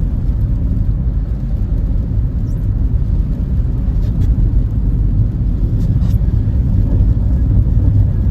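Steady low road rumble of a car driving, the tyre and engine noise of a vehicle on the move.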